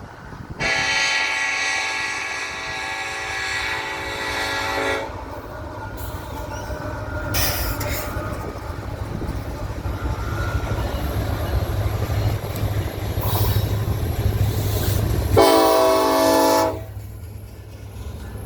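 Diesel freight locomotive's multi-chime air horn sounding a long blast of about four seconds, then the train's engines and cars rumbling steadily past. A second, shorter horn blast comes near the end.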